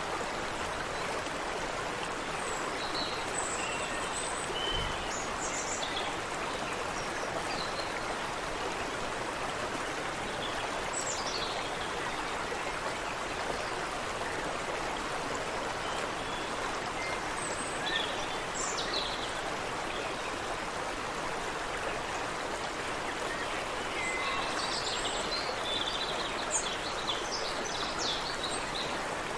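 Creek water running steadily, with small birds chirping briefly and on and off above it, the calls clustering more thickly near the end.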